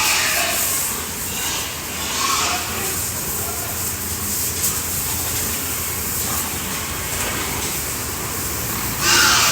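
Steady hiss of water spraying from a hose as pigs are washed, with brief pig calls near the start, about two seconds in and again near the end.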